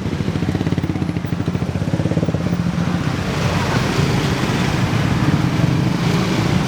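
A motor vehicle engine running close by, with a rapid, even pulse that holds steady throughout.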